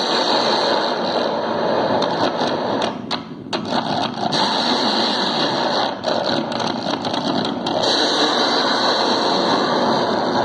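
Microwave oven running, picked up close and amplified: a steady, dense buzzing noise with scattered crackling clicks, dipping briefly about three seconds in.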